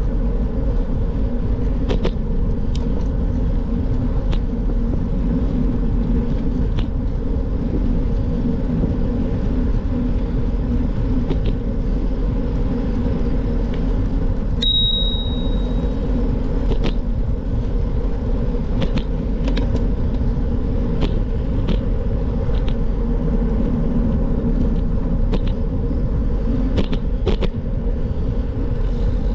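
Steady low rumble of riding a bike along a road: wind on the microphone and rolling noise. Scattered light ticks run through it, and a brief high beep sounds about halfway through.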